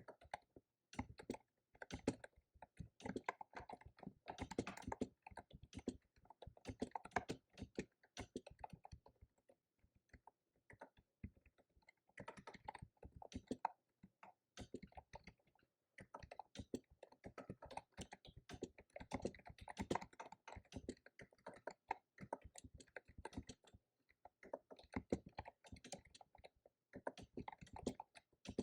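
Fast typing on a computer keyboard: quick runs of key clicks broken by short pauses.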